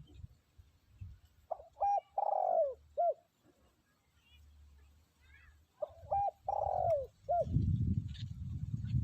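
Spotted dove cooing: two phrases, each of two short coos, a longer coo falling in pitch, then a last short coo. A loud low rumble comes in near the end.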